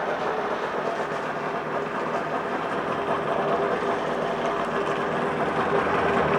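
Two-cylinder two-stroke engine of a 2000 Johnson 50 hp outboard idling steadily in neutral, freshly started.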